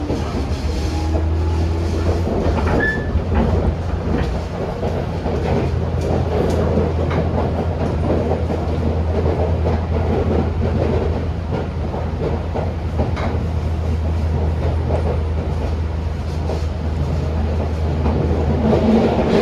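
Tobu 10000-series electric commuter train running along the line: a steady rumble of wheels on rail, with scattered clicks and a brief squeal about three seconds in.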